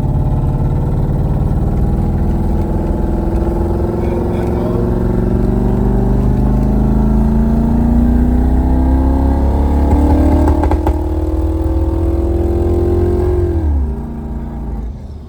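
Twin-turbo LS V8 in a limousine under a long pull, its pitch climbing slowly and steadily for about thirteen seconds. Near the end the throttle lifts and the engine note drops away sharply and goes quieter.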